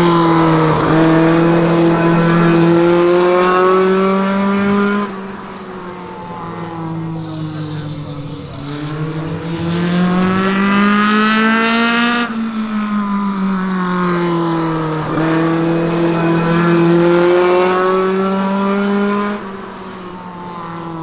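NEMA Lite race car's engine running laps at speed. The revs climb and hold high, then drop sharply as the driver lifts for the turns, three times.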